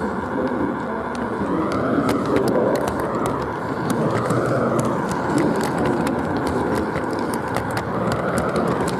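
G-scale model train running on its track, the motor's whine rising and falling several times with speed, with frequent sharp clicks from the wheels on the rails, heard from on board the train.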